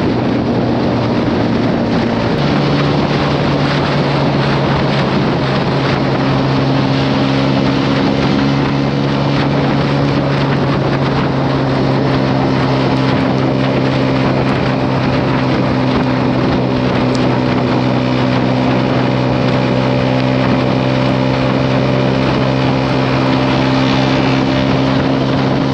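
Honda CB125R single-cylinder engine with a Leovince LV10 exhaust running steadily at cruising speed, under a steady rush of wind on the microphone. The engine note changes once about two seconds in, then holds.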